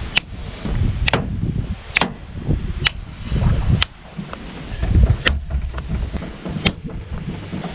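The spine of a thick N690 steel knife being struck hard, seven sharp strikes about once a second in an impact test. From about four seconds in, each strike leaves a brief high metallic ring.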